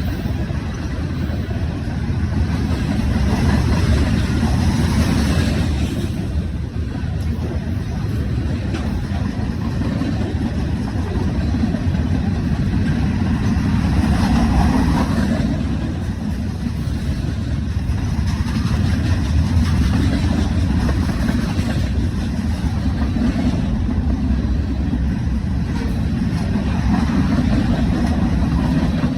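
Train passing close by: a steady low rumble with wheel and rail noise that swells and eases slightly over the span.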